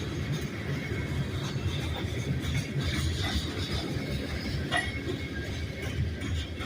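Loaded rock train cars rolling past on the rails: a steady low rumble of wheels on track, with faint metallic clinks and thin wheel squeals.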